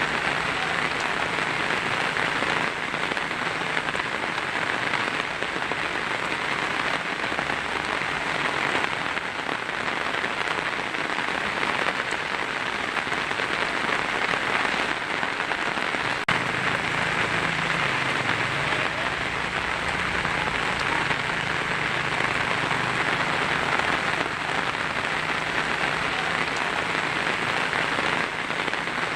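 Heavy rain falling steadily on a tin roof, an even dense patter of drops.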